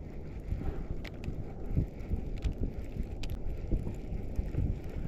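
Wind buffeting the microphone, an uneven gusting rumble, with a few light clicks and taps over it.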